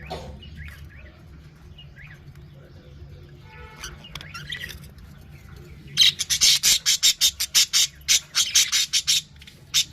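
Budgerigars in a colony chirping softly, then about six seconds in a loud rapid run of squawking calls, several a second, lasting about three seconds, with one more call near the end.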